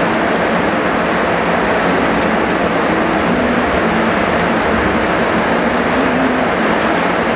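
Heavy rain falling, a steady, dense hiss that does not change in level.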